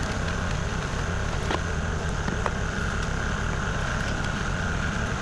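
Kubota KX040 mini excavator's diesel engine running steadily, with a steady whine above the engine note and a few faint clicks.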